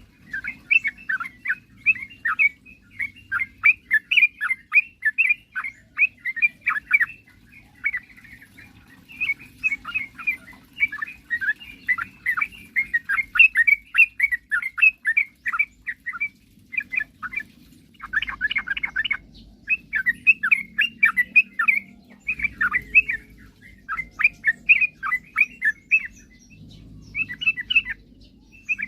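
Yellow-vented bulbul (trucukan) singing: rapid, chattering runs of chirpy notes in bouts broken by short pauses.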